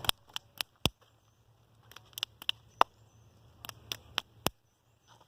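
About a dozen sharp, irregular clicks and taps in small clusters, with near silence between them.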